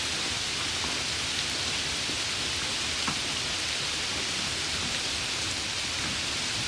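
Steady rain falling, an even hiss with a few faint drop ticks, one slightly louder about three seconds in.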